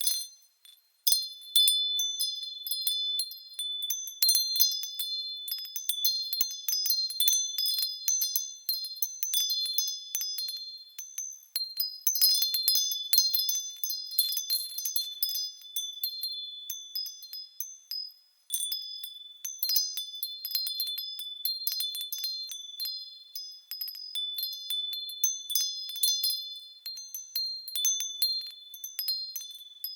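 Japanese fūrin wind chimes ringing as the wind sways them, in frequent, irregular high, clear strikes. They fall quiet briefly just after the start and again at about two-thirds of the way through.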